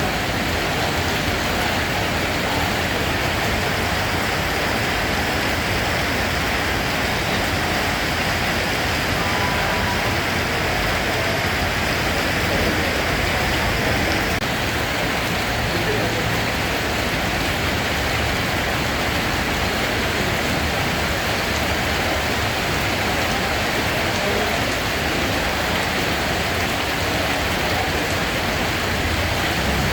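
Steady rainfall, an even hiss of rain with no breaks or changes in strength.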